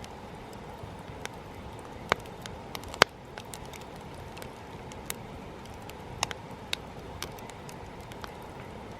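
Wood campfire crackling: sharp pops at irregular intervals over a steady hiss, the loudest pop about three seconds in.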